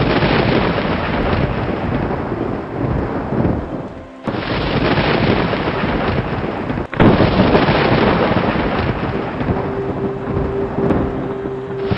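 Heavy rain with thunder rumbling. The sound dips sharply about four seconds in, drops out for an instant about seven seconds in, and comes straight back each time.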